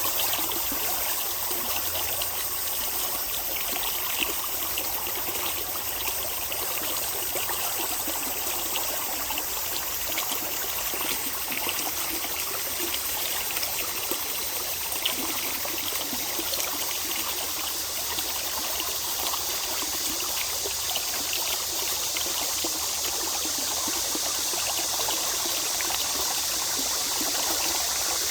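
Mountain valley stream flowing, a steady, continuous rush of running water.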